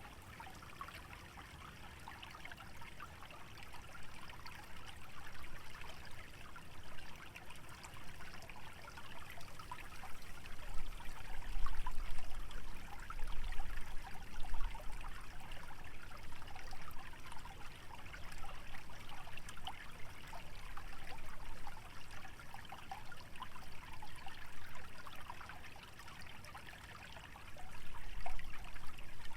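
Shallow stream trickling and babbling steadily through wetland vegetation. Low rumbling gusts of wind swell about a third of the way in and again near the end.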